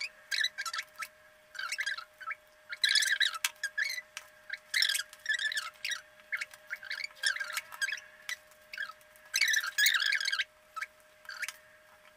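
A bird chirping and squawking in many short, quick calls, with a faint steady hum underneath.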